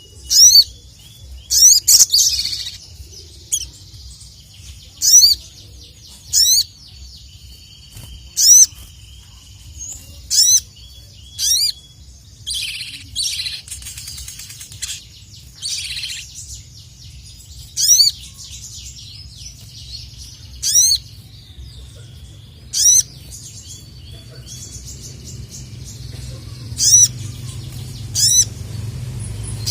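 Sogon (sogok ontong) sunbird calling: short, sharp, high-pitched notes repeated every second or two, with a few buzzier bursts in the middle, over a low steady hum.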